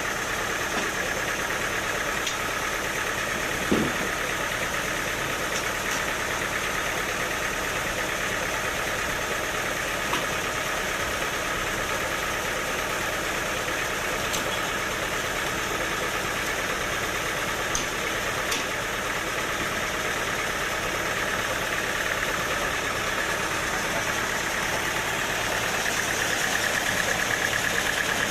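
Sawmill machinery running steadily with a continuous mechanical drone, growing a little louder near the end, with a few faint ticks and knocks.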